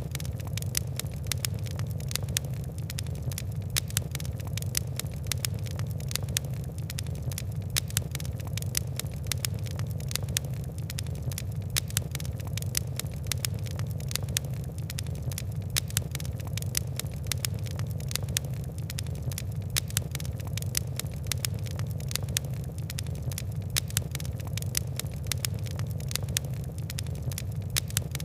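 Fire crackling in a fireplace: many small, sharp crackles and pops at an uneven pace over a steady low rumble of the flames.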